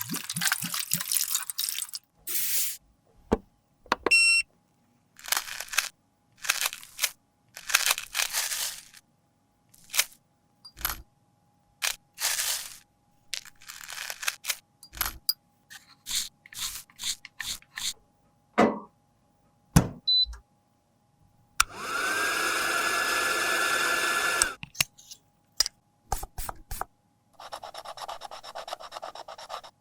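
A series of short, abruptly cut scraping and crunching sounds from tools working a pressed powder blusher. About two-thirds of the way through, a small electric motor spins up and whirs steadily for about three seconds, and near the end comes a steady hiss lasting about two seconds.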